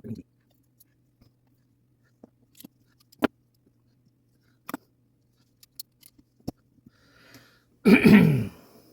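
Scattered light clicks and taps of small clock parts being handled as the wheels of a mantel clock movement are fitted, over a faint steady low hum. Near the end comes a short, loud voiced hum or grunt from a person.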